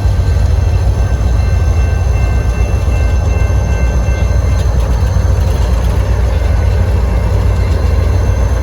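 Freight train rolling past, a loud steady rumble of the cars with faint steady high-pitched ringing tones above it.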